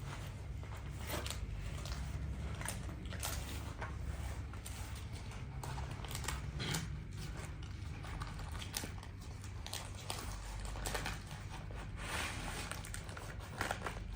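Irregular crunching and crackling clicks over a steady low rumble.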